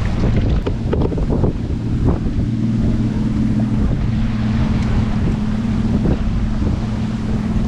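Wind buffeting the microphone and water rushing along the hull of a sailboat under way, with a steady low hum underneath and a few short knocks and splashes.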